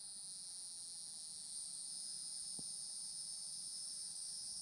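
Night insect chorus, a steady high-pitched trilling in two pitch bands. A single faint tick sounds about two and a half seconds in.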